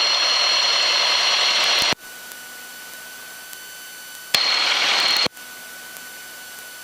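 Cockpit noise of a light airplane picked up through the headset intercom: a loud hiss with a steady high whine that switches off suddenly about two seconds in. It switches back on for about a second near the end, and in between there is a quieter steady hum.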